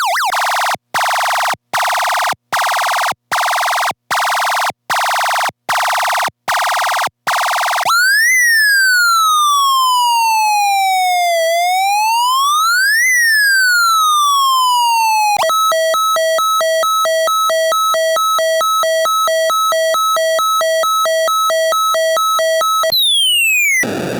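Electronic sound effects from a Snap Circuits sound-effect chip, fed directly from the circuit with no room sound. First a buzzy tone switches on and off about once a second, then a siren-like tone slides slowly up and down twice, then a fast, even two-tone warble, and near the end a falling sweep with hiss.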